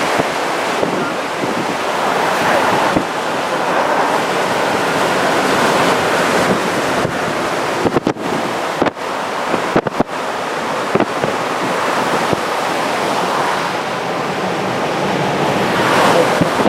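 Steady rushing of wind and heavy surf from a typhoon-churned sea, with gusts buffeting the microphone a few times about halfway through.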